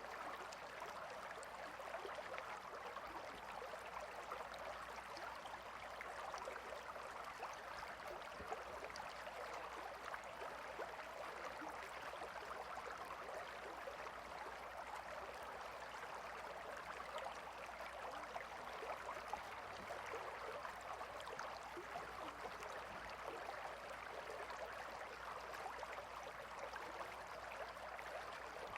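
Gentle river water flowing and babbling steadily, a continuous even rush with fine splashing texture.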